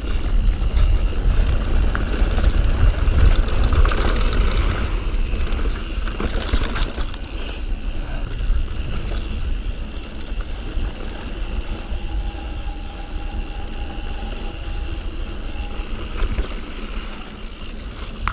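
Mountain bike riding down a dirt trail: tyres and bike parts rattling over rough ground, under a heavy low rumble of wind on the microphone. A thin steady whine comes in for a few seconds past the middle.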